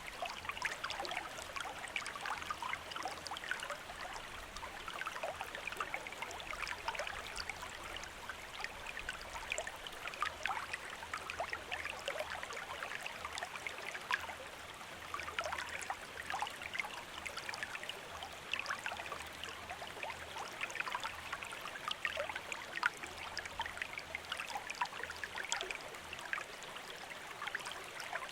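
Shallow stream running over stones, a steady babble of many small splashes and gurgles.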